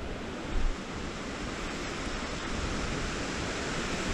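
Waterfall rushing: a steady noise of falling water that slowly grows louder. About half a second in there is a brief low thump.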